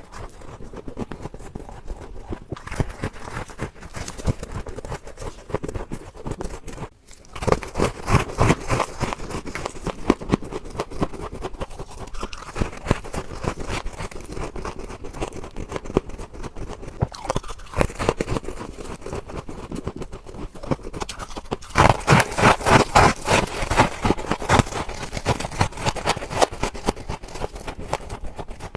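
Freezer frost ice being crunched and chewed in bites, with scraping, as a dense run of crisp cracks. There is a brief break about seven seconds in, and it grows louder near the end.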